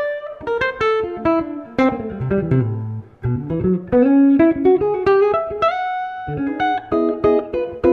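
Steinberger headless electric guitar played: a flowing line of plucked single notes and chords, walking down to low notes about two and a half seconds in and holding one note near the six-second mark.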